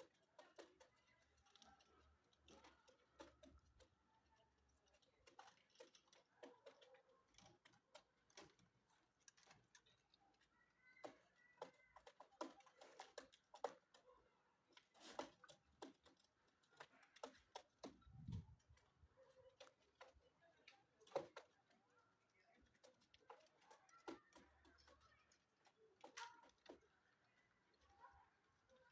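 Faint scattered clicks and taps, with a few soft bird chirps in between, from birds kept in a loft.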